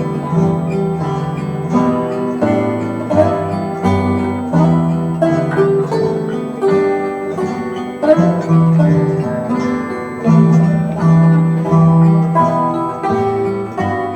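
Acoustic guitar instrumental: a repeating chord progression with an improvised plucked melody over it, notes ringing on between plucks.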